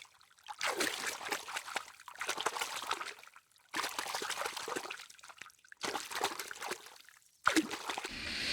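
Water trickling and splashing in several short stretches, each breaking off suddenly.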